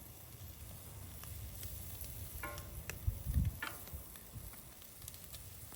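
Chicken sizzling on a firepit grill, with scattered clicks and a dull knock a little over three seconds in. Two brief pitched sounds, like a short vocal noise, come midway through.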